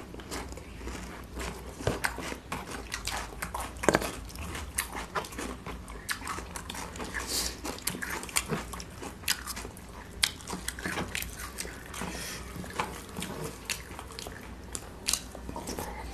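Close-miked chewing and lip-smacking of two people eating with their hands: many small, irregular wet clicks and smacks.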